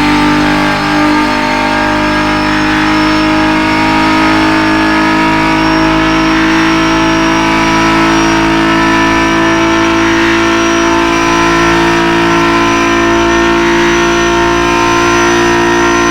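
Nissan GT-R GT3 race car's twin-turbo V6 running at a steady speed: a loud, even drone with no revving.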